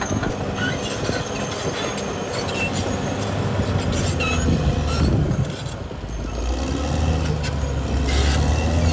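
Caterpillar D6R XL crawler bulldozer working: diesel engine running steadily with the steel tracks clanking and squealing. The engine note dips briefly about two-thirds of the way through, then comes back up.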